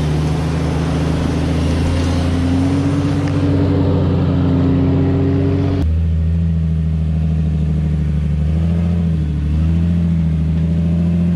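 Jeep engine running under load while crawling over rocks, its pitch rising as it is revved in the first half. The sound changes abruptly about six seconds in, then the engine runs on steadily with small rises and falls in revs.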